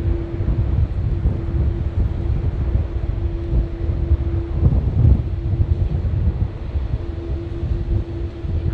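A jet airliner's engines holding a steady hum under strong wind buffeting on the microphone, with a heavier gust about five seconds in.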